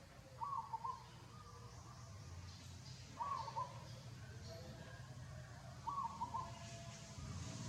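A bird calling three times, a short two-part note about every two and a half seconds, over a steady low hum.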